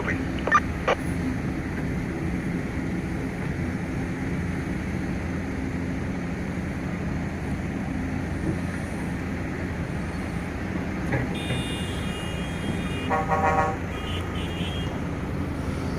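Heavy diesel engine of mining machinery running steadily, with a horn tooting briefly twice between about eleven and fourteen seconds in.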